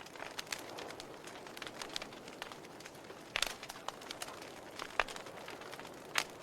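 Wood fire burning, with irregular sharp crackles and pops over a soft steady hiss; the loudest snaps come about three and a half and five seconds in.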